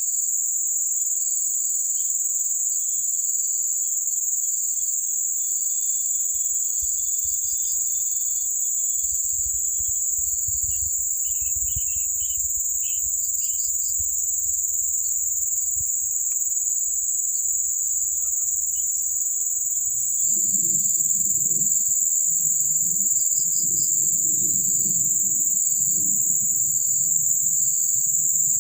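Continuous high-pitched insect chorus, with a second insect call pulsing at a steady beat beneath it. A low rumbling noise comes in about a fifth of the way through and grows louder in the last third.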